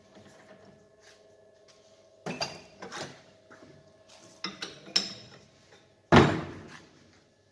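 Metal clinks and knocks of a wrench working on a steering rack's tie rods: two short flurries of clinks, then one loud clank that rings and fades about six seconds in.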